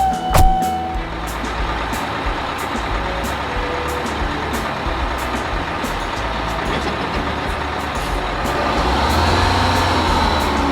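A heavy vehicle's engine running steadily, in keeping with a truck or construction machine, growing louder after about eight seconds. There is a sharp click about half a second in.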